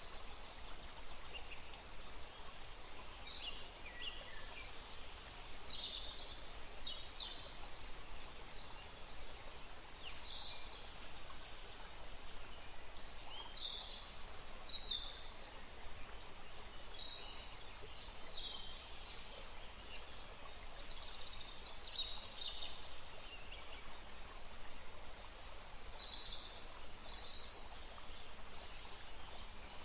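Songbirds chirping in many short, high calls, a new one every second or so, over a steady background hiss.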